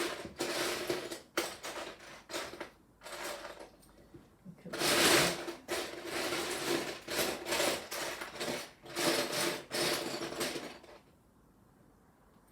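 Loose plastic Lego pieces rattling and clattering as a hand rummages through them, in a run of bursts that is loudest about five seconds in and stops near the end.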